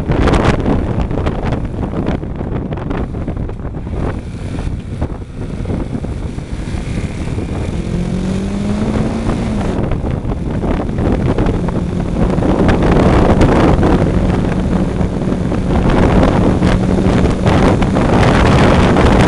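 Motorcycle being ridden, with heavy wind buffeting the microphone. The engine note rises briefly about eight seconds in, then holds steady through the second half.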